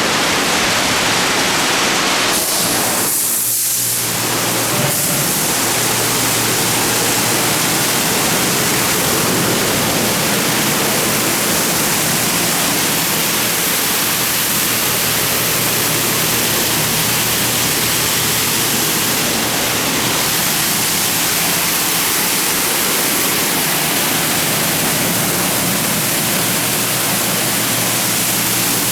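Automatic car wash in its cycle: a steady, loud rush of water spraying onto a car.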